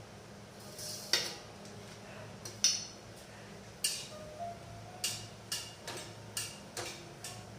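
Metal kitchen utensils clinking against each other: about nine sharp, irregular clinks, some ringing briefly, over a low steady hum.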